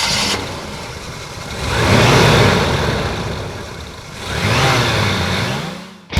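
Monster truck engine revving hard twice, each rev swelling up in pitch and loudness and then dropping back, before fading out.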